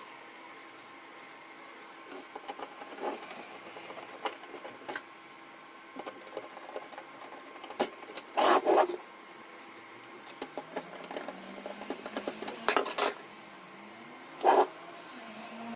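Mechanical hum with a few steady tones, broken by scattered sharp clicks and three louder clatters about halfway, near the end and just before it stops. This fits a Canon MF4018 laser printer's mechanism being worked on or run.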